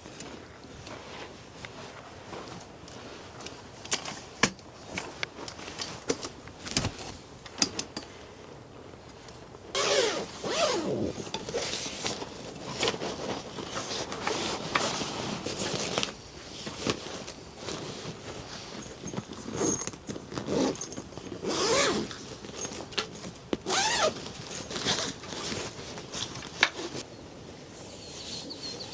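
Gear being handled at close range: scattered clicks and knocks, then from about ten seconds in a run of repeated rustling and zipping strokes, as of a zip being worked and fabric moved.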